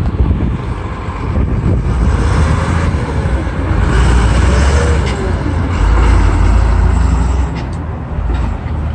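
Water truck's engine running with a heavy low rumble that swells louder for a few seconds in the middle and then eases off.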